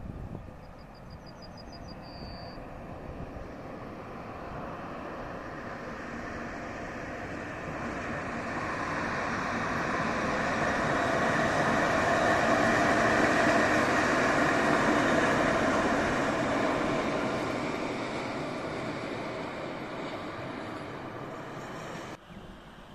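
Freight train hauled by two electric locomotives in tandem passing by. The noise of the locomotives and wagons on the rails builds to a peak about halfway through, then fades away.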